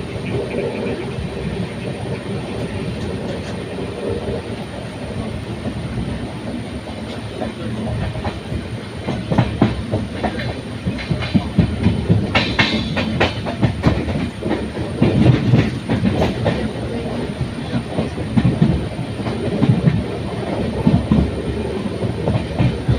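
A train running through the station, its wheels clattering over the rail joints. The clatter becomes louder and more distinct about a third of the way in.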